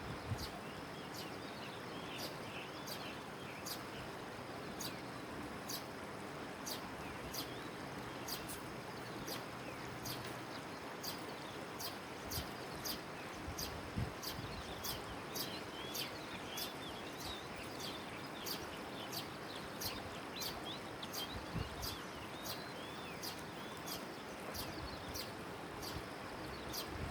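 Birds calling over a steady outdoor background hiss. A high, short chirp repeats evenly about one and a half times a second, with softer lower chirps mixed in.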